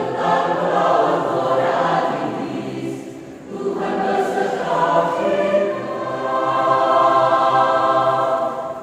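Church choir singing in parts, two long phrases with a brief breath break about three seconds in.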